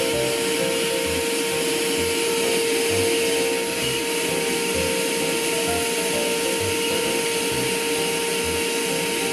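Wet/dry vacuum cleaner running steadily, a constant rushing hiss with a steady whine.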